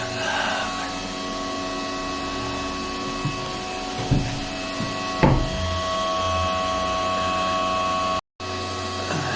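A steady hum with several fixed tones, with a few knocks about three, four and five seconds in, the last the loudest, as fireclay bricks are handled in the steel frame of the fireplace.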